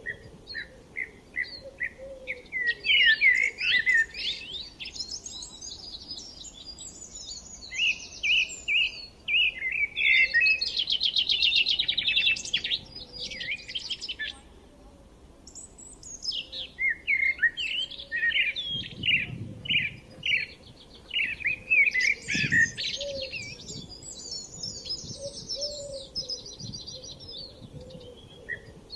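Several wild songbirds singing at once: overlapping chirps, rapid trills and quick repeated notes, easing off briefly about halfway through before picking up again.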